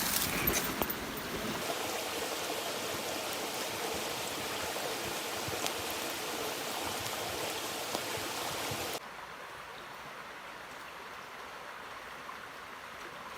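Campfire burning: a steady hiss with a few sharp crackles, dropping to a quieter hiss about nine seconds in.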